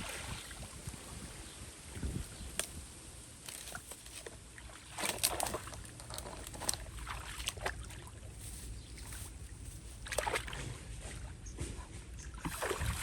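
Water sloshing, with scattered clicks and knocks from handling, over a low steady rumble.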